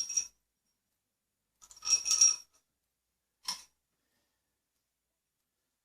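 Small metal hardware clinking: star washers and bolt fittings jingling against each other in three short bursts, the middle one, about two seconds in, the loudest.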